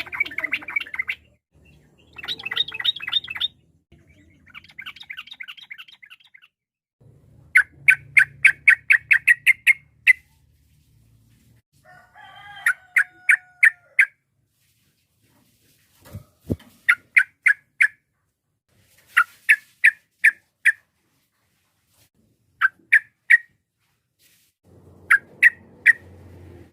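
Yellow-vented bulbul (trucukan) calling: bursts of quick, clipped chattering notes, each run lasting a second or two and repeated after short pauses.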